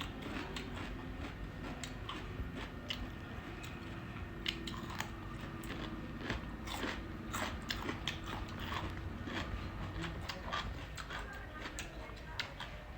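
A person eating close to the microphone, biting and chewing a home-cooked meal, with many short clicks from the mouth and food throughout.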